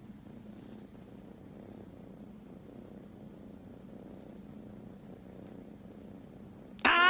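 Domestic cat purring steadily and quietly. Right at the end, a loud pitched tone with overtones cuts in abruptly.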